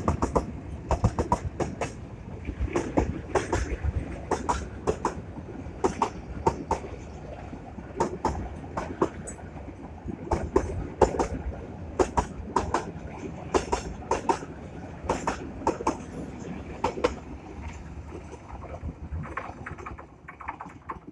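Goods train wagons passing close by: steel wheels clacking over the rail joints in irregular clusters over a low rumble, growing fainter near the end.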